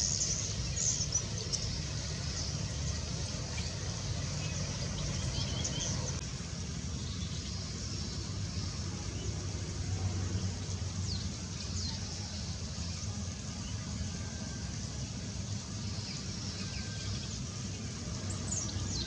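Small birds chirping and calling, with short high chirps clustered at the start and again near the end, over a steady low rumble.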